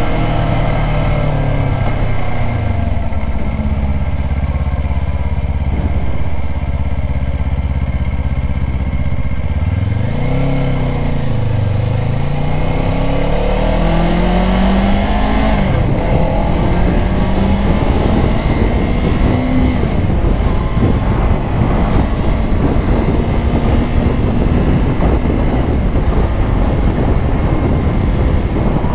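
Kawasaki Ninja 500's parallel-twin engine under way, its pitch falling at first, then rising and dropping several times about ten to sixteen seconds in as it revs through gear changes, before holding steady at highway speed. Wind noise on the microphone builds over the second half.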